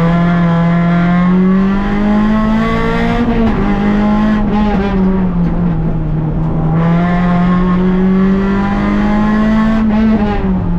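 Rally car engine heard from inside the cabin, at full effort on a timed stage. The engine note drops between about 3 and 5 seconds in, climbs steadily from about 6 to 10 seconds in, then dips again near the end.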